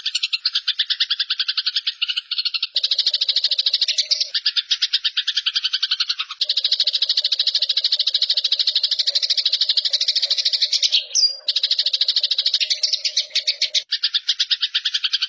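Eurasian tree sparrows giving their agitated fighting chatter: a fast, shrill, unbroken rattle of notes with one short break about three-quarters of the way through.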